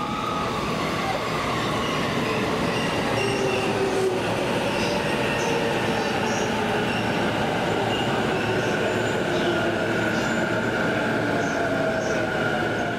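The Royal Express passenger coaches rolling past on the rails, a steady rumble of wheels on track with drawn-out squealing tones that slide slowly in pitch.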